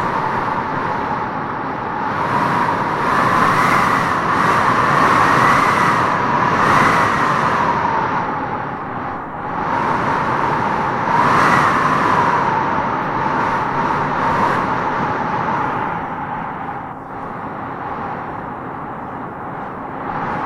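Wind howling through trees in gusts, a whistling note riding on a steady rush. The howl swells and rises in pitch twice, about three seconds in and again about eleven seconds in, then eases toward the end.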